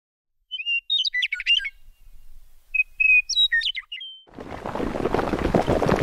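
A songbird sings two short, quick chirping phrases, a second or so apart. About four seconds in, a gritty crackling and rumbling begins, like stone cracking and crumbling.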